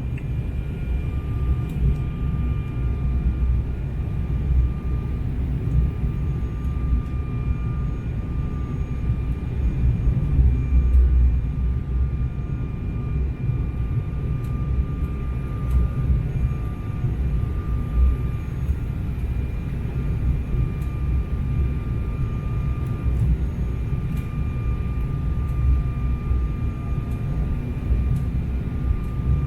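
Jet airliner engines running steadily: a continuous low rumble with a thin, steady whine on top.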